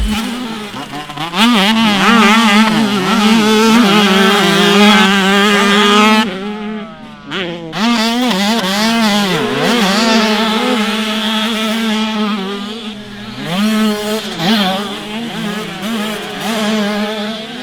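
Motocross bikes racing on a dirt track, engines revving hard and climbing in pitch through the gears again and again, with the throttle chopped briefly about six seconds in.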